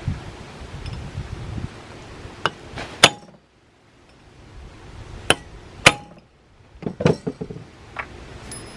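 Hammer blows on a 1/4-inch extension held against a bronze rivet, peening it tight in a bronze horn back cap: sharp metallic clinks with a brief ring. Two blows come about two and a half seconds in, two more around five to six seconds, then a quick run of lighter taps near seven seconds.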